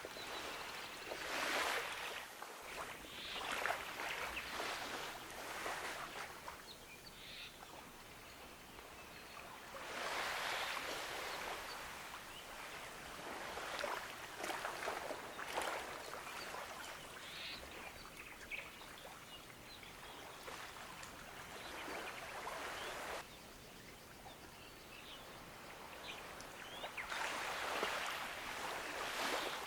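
Gentle ocean waves washing onto a beach, each wash swelling into a hiss and fading away, several seconds apart.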